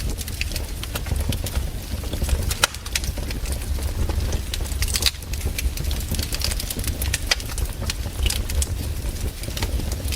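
Wood campfire crackling, with irregular sharp pops and snaps over a low, steady rumble.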